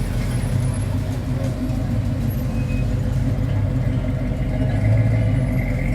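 Classic Mopar car engine idling with a steady, low, pulsing rumble.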